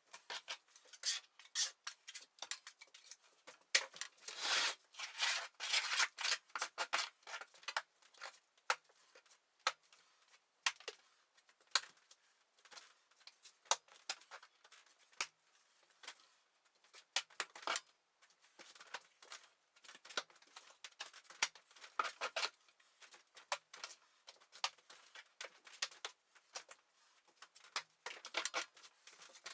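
Plastering trowel scraping and spreading wet plaster mortar in many short, rasping strokes, heavier for a few seconds near the start.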